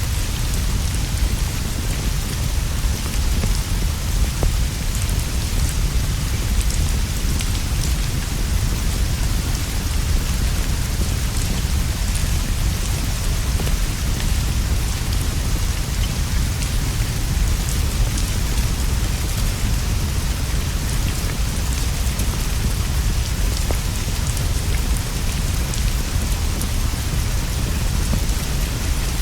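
Steady rainfall, an even hiss with a deep low rumble beneath it and faint scattered ticks, unchanging throughout.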